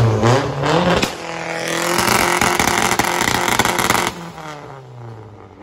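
A car engine revs up hard, holds high revs with a loud roar for about three seconds, then falls in pitch and fades out near the end.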